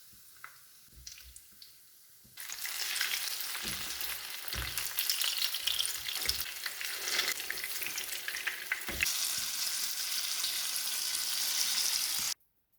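Apple fritters in batter frying in a hot pan: a loud crackling sizzle starts suddenly a couple of seconds in, after a few faint clicks, with a few soft knocks, and cuts off abruptly near the end.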